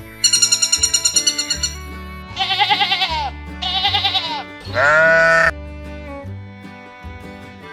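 A bird's rapid, high chirping trill, then three wavering bleats from a farm animal, the last one the loudest, over background music with a steady bass line.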